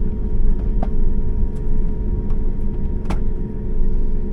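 Steady low rumble and hum inside a vehicle, with a few sharp clicks and knocks, the loudest about three seconds in.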